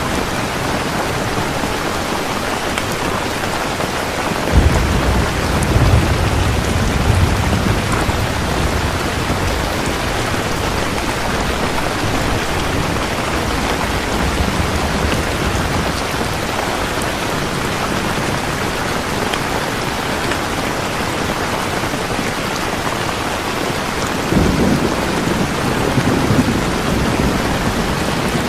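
Steady, heavy rainfall with an even hiss of falling drops. Two long low rolls of thunder rumble underneath, one starting about four seconds in and another near the end.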